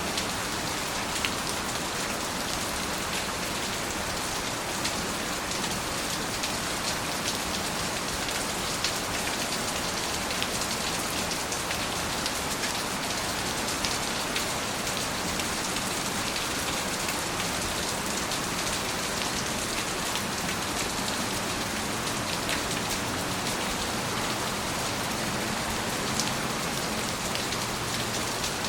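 Steady rain falling on a surface, a continuous even hiss with many small individual drop ticks scattered through it.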